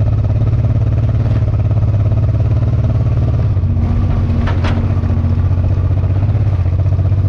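Motorcycle engine running at a steady speed, with a brief click or two about halfway through.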